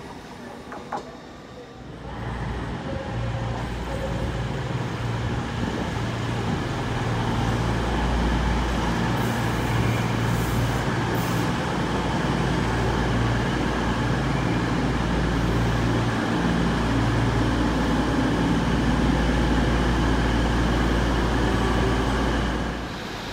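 A train moving through the station: a heavy, low rumble that builds over the first few seconds, holds steady for most of the time, and drops away sharply near the end.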